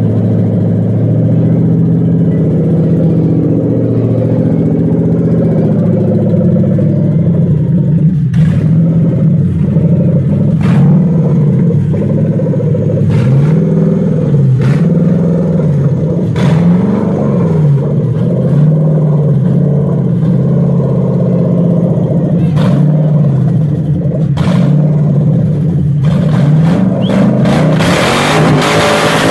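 A Toyota Altezza's swapped-in BMW engine running, then revved over and over so that its pitch climbs and falls in a string of blips. Near the end a louder rushing noise builds over it.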